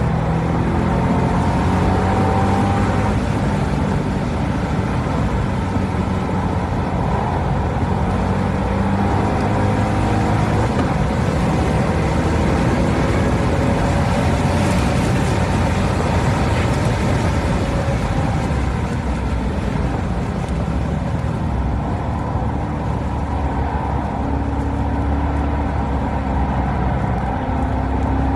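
Corvette C6 Grand Sport's 6.2-litre LS3 V8 driven hard on track, its pitch climbing and dropping repeatedly as it accelerates, shifts and lifts for corners, over steady wind and tyre noise.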